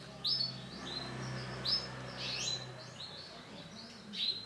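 Male canary singing: a series of short, high, sweeping chirps and trills, several notes a second.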